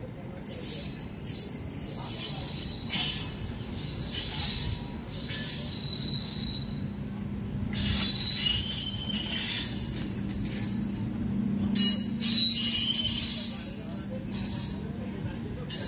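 Electric multiple-unit local train passing at close range on curved track, a steady low rumble of the coaches with high-pitched wheel squeals that come and go, loudest about twelve seconds in.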